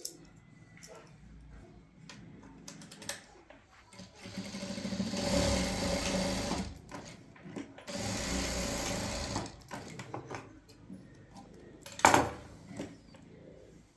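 A small motor runs in two bursts of about two seconds each, steady while it runs. A single sharp knock comes near the end.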